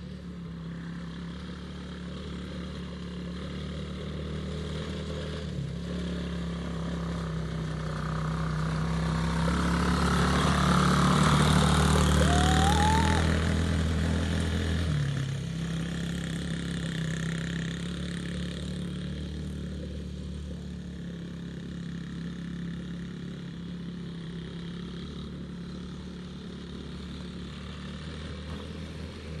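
Small off-road vehicle engine running steadily, growing louder toward the middle and then fading, with its note dropping a little about halfway through.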